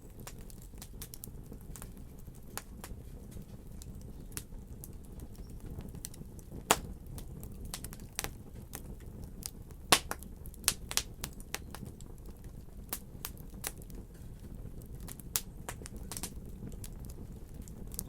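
Fireplace fire crackling: irregular sharp pops and snaps over a low steady rumble. The two loudest pops come about a third of the way in and just past the middle.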